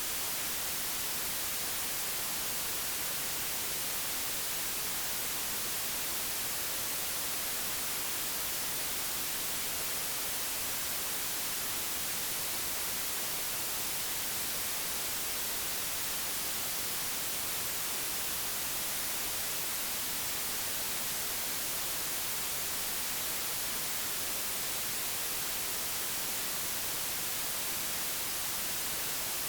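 Digitally generated white noise: a steady, unchanging hiss with no events, strongest in the treble.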